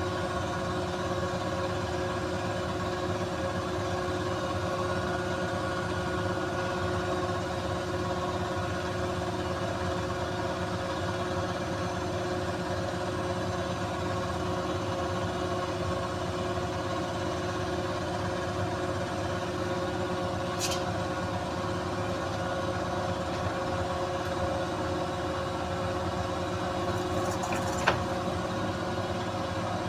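Beko WMY81283LMB2 washing machine running steadily in its final spin with an unbalanced load, a continuous motor and drum hum with fixed tones. There are two sharp clicks, one about two-thirds of the way in and a louder one near the end.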